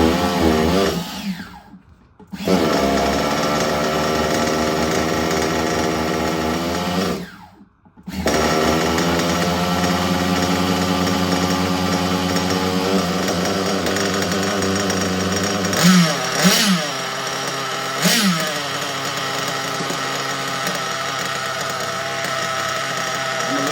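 Small two-stroke glow-fuel (nitro) engine of a 1/8-scale RC buggy starting up and running with a high, steady buzz. It cuts out briefly near 2 s and again near 7 s, then picks up and keeps running, with a few quick throttle blips around 16 and 18 seconds.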